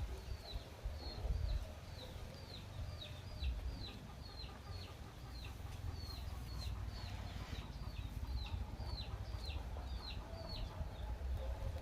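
A small bird peeping: a steady run of short, high notes that each drop in pitch, about two a second, stopping shortly before the end, over a low rumble.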